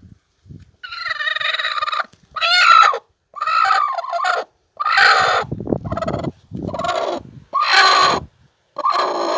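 Broody hen calling in a run of about seven drawn-out calls, each about a second long with short pauses between them.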